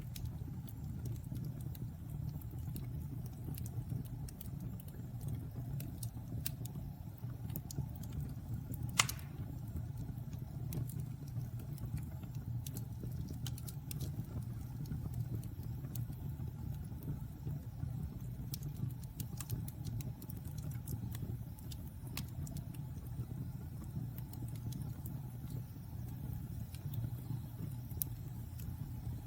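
Wood fire burning in a fireplace: a steady low rumble of the flames with scattered small crackles and one sharp, loud pop about nine seconds in.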